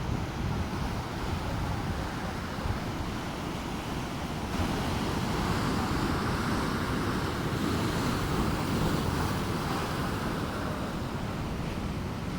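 Ocean surf washing onto the beach, a steady rushing hiss that swells about a third of the way in and eases off near the end, with wind buffeting the microphone.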